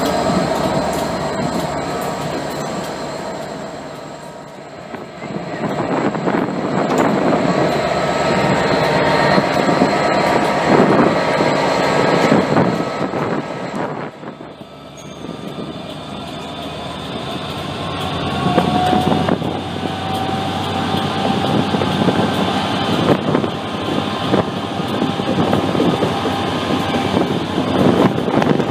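Passenger coaches behind a Class 67 diesel locomotive rolling past along a platform, the wheels squealing in steady high tones. After a dip about halfway through, the same train is heard from an open coach window just behind the Class 67 as it moves slowly on. The loco and the wheels on the rails make a continuous rumble, with a tone that rises gradually.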